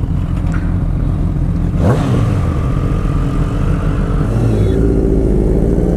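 Motorcycle engine running under way, with a quick rev that rises and falls about two seconds in. From about five seconds in the engine pulls hard, its pitch climbing steadily as it accelerates.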